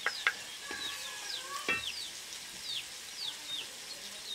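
Chopped onion, tomato and green chilli sizzling in oil in a metal karahi as spice powder is tipped in, with a couple of sharp metal clinks near the start and a single knock a little before halfway. Birds chirp repeatedly in the background.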